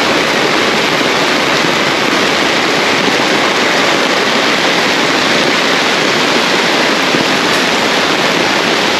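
Heavy rain pouring steadily, an even, unbroken hiss of rain falling on the umbrella overhead and on the road.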